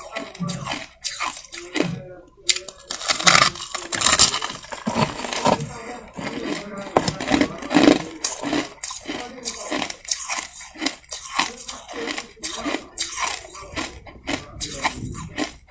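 Close-up chewing and crunching of soft crushed ice, a quick, irregular run of crisp crunches.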